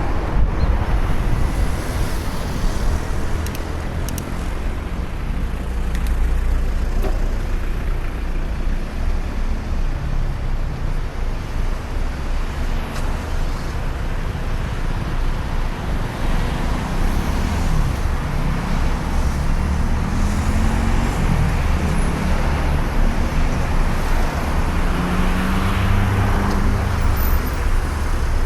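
Steady low rumble and hiss of wind and motion on a bicycle ride, with road traffic going by. In the second half a low pitched drone wavers up and down, like a passing engine.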